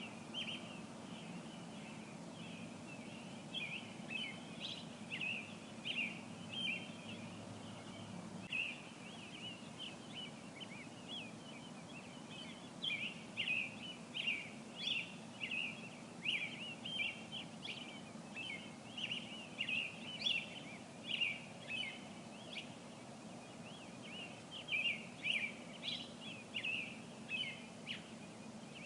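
Songbirds chirping: a steady stream of short, high chirps in quick clusters, over a faint steady low background hum.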